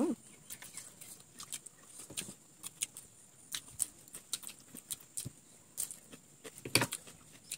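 Close-up eating sounds: chewing with wet, irregular mouth clicks and crisp crunches as a raw cucumber slice is bitten and chewed, and one sharper click near the end.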